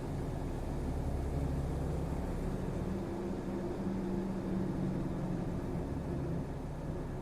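City route bus under way, its engine and drivetrain running with a steady low rumble heard from inside the cabin; an engine hum grows stronger from about two seconds in and fades near the end.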